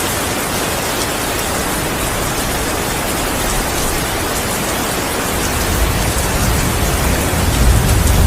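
Steady heavy rain falling. About halfway through, a deep rumble of thunder starts and grows louder toward the end.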